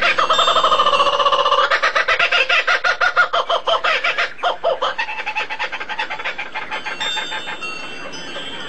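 Recorded bird calls: a loud, fast run of repeated pitched notes, about ten a second, that slows and fades over about five seconds, followed by fainter high calls.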